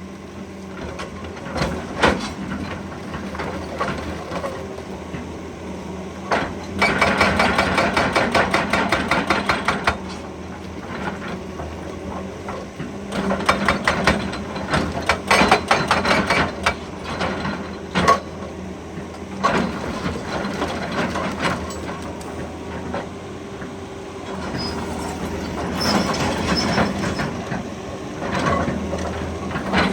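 Excavator's diesel engine running steadily under load, with several bursts of rapid, evenly spaced percussive hammering from its attachment, the longest lasting about three seconds.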